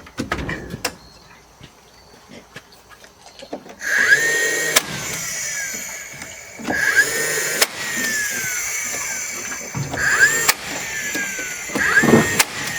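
A power stapler fastening boards, four times. Each time its motor whines, fires with a sharp crack, and the whine falls away as it winds down.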